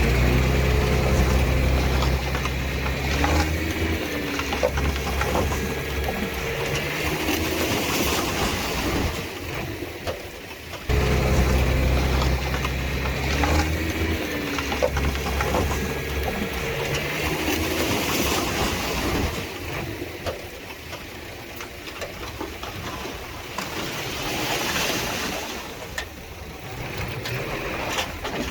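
Heavy earthmoving machine's diesel engine running under load, its pitch rising and falling as it is revved. The sound drops and jumps back abruptly about eleven seconds in.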